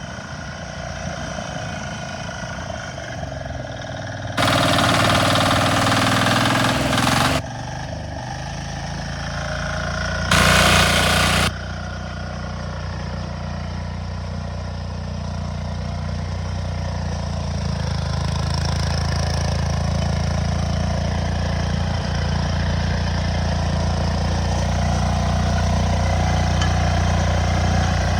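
Compact tractor engine running steadily, with two louder bursts of noise: one of about three seconds starting some four seconds in, and a shorter one of about a second near ten seconds.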